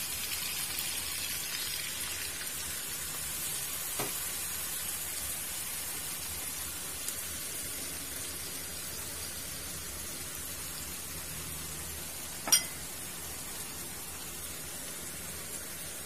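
Pork ribs and onion frying in a wok, a steady sizzle that eases off a little as the sauces go in. A faint tap about four seconds in and a sharp clink at about twelve seconds.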